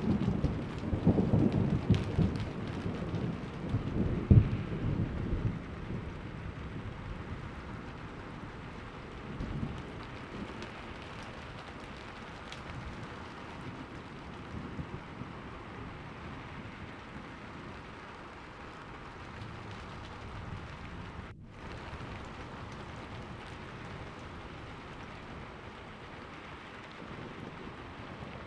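A rolling thunder rumble fading away over the first few seconds, then steady rain falling.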